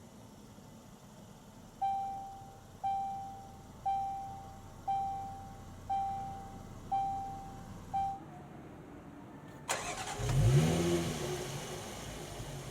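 A dashboard chime sounds seven times, about once a second. Then the Land Rover Discovery's 3.0-litre supercharged V6 cranks and starts, its revs flaring up and dropping back to a steady idle.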